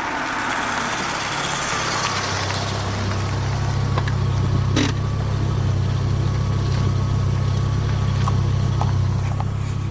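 Audi 200 20V's turbocharged inline five-cylinder running steadily, heard at the exhaust as a low drone that swells over the first two to three seconds and then holds even, with a few faint clicks.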